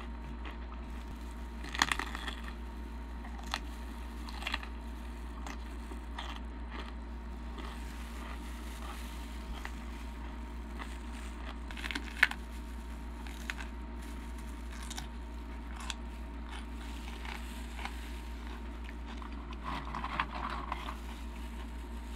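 Close-miked eating of a jalapeño stuffed with cream cheese and Takis rolled tortilla chips: scattered soft crunches and bites while chewing, the sharpest crunch about twelve seconds in, over a steady low hum.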